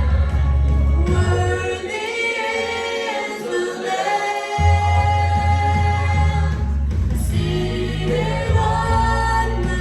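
Congregational worship music: voices singing held notes over a band with a strong bass, which drops out for a couple of seconds and then comes back in.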